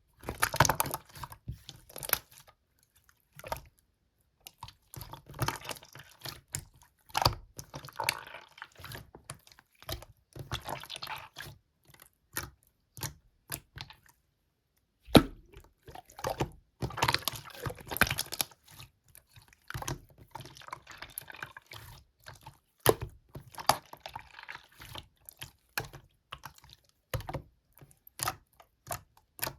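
Slime being squished and poked by hand: irregular wet clicks and crackling pops in short bursts, with a brief pause about halfway through.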